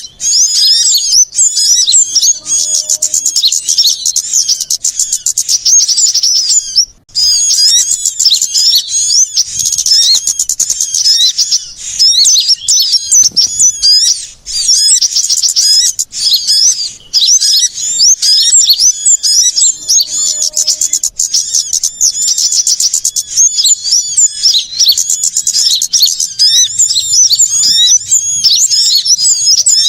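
Many small songbirds chirping and twittering fast and continuously in a loud, high-pitched chorus, with a brief break about seven seconds in. It is a bird-luring recording meant to draw small birds in.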